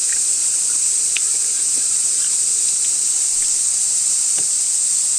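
A dense chorus of cicadas shrilling in one steady, unbroken high-pitched hiss, with a few faint clicks.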